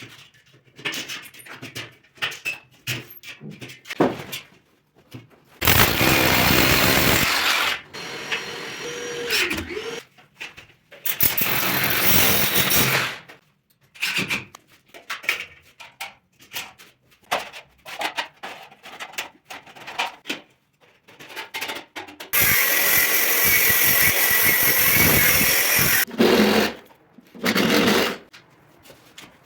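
A power tool running in three bursts of about two to four seconds each, with short knocks and clatter in between.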